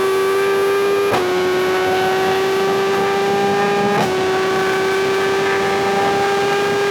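Superbike inline-four engine pulling under acceleration at high revs, its pitch climbing slowly. The note breaks briefly twice, about a second in and about four seconds in, with a slight drop in pitch each time, as the gears are shifted up.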